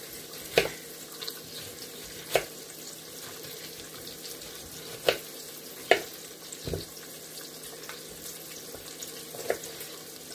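Knife chopping onion on a cutting board: about six sharp knocks at irregular intervals over a steady low hiss.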